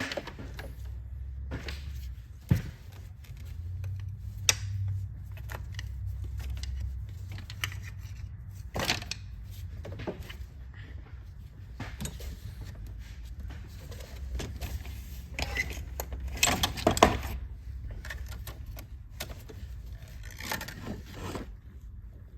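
Intermittent metallic clinks, scrapes and knocks of hand tools and parts being handled while a car's starter is worked on, over a low steady hum. The sharpest knock comes about two and a half seconds in, and a cluster of knocks comes near seventeen seconds.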